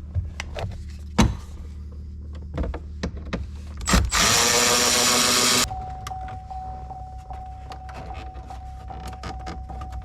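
A cordless drill/driver with a 7mm socket runs for about a second and a half, four seconds in, backing out a dash trim screw. Clicks and knocks from handling the plastic trim panel come before it, and after it a faint steady high tone with regular ticks.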